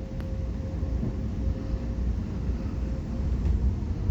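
Metra commuter train riding over a switch, heard from inside the coach: a steady low rumble of wheels on track, with a faint steady whine that fades out about three seconds in.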